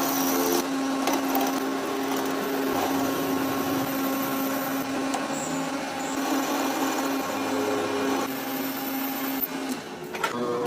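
A workshop machine running steadily with a constant motor hum under a broad mechanical noise; the hum stops shortly before the end.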